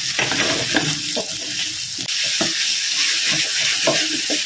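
Sambal of shallots, lemongrass and chillies sizzling in hot oil in a metal wok while a wooden spatula stirs it, giving a steady hiss with frequent short scrapes of the spatula against the pan.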